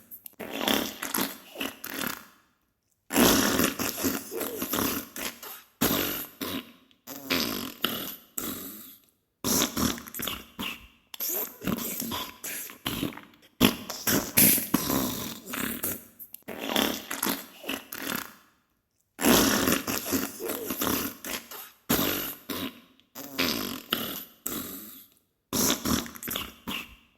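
Diarrhea sound effect: a string of wet, sputtering fart bursts, each a second or two long and trailing off, with short silent gaps between them.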